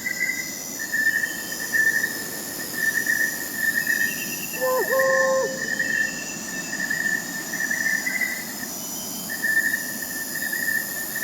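Crickets chirping steadily in several overlapping pitches, with one short owl hoot about four and a half seconds in.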